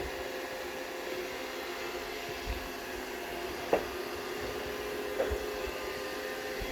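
Roomba robot vacuum running with a steady motor whir, several steady tones in it. A sharp knock comes almost four seconds in and a lighter tap about a second and a half later.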